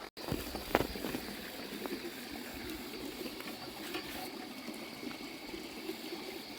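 Water gurgling and lapping steadily, with one sharp click under a second in.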